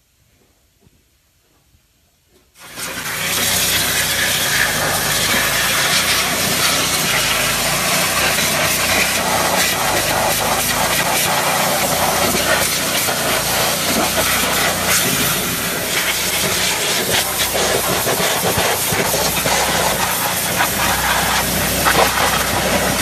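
Loud, steady hissing with a low hum underneath, starting suddenly about two and a half seconds in.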